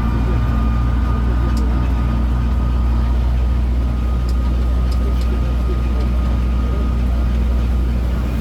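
Tourist road train's engine running steadily: a deep, even hum with a faint steady high whine above it.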